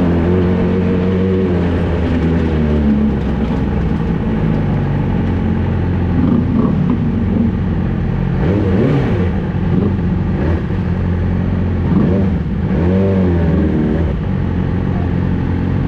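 Yamaha R6's inline-four engine running through a Two Brothers full-system exhaust, holding steady revs at first, then rising and falling in pitch several times in the second half as the throttle opens and closes.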